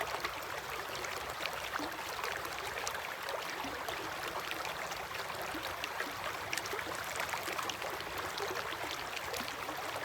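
River water flowing steadily, a dense rushing with many small splashes throughout.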